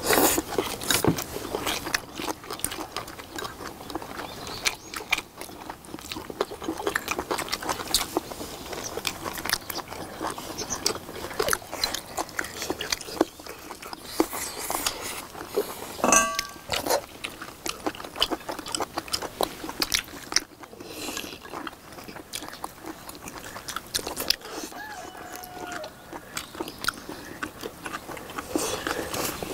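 Several people chewing and smacking mouthfuls of braised beef short ribs, close to the microphone, with steady small wet clicks and the tap of chopsticks. A short ringing clink stands out about sixteen seconds in.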